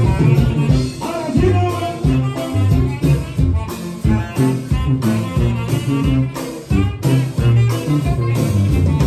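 Orquesta ranchera band playing live, an instrumental passage with a steady dance beat over pulsing bass notes.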